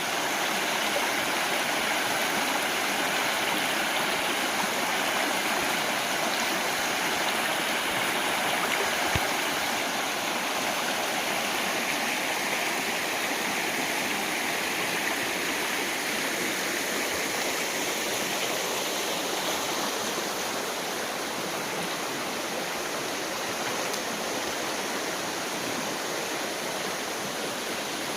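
Steady rushing whitewater of a steep mountain creek pouring over a waterfall, a little softer in the second half.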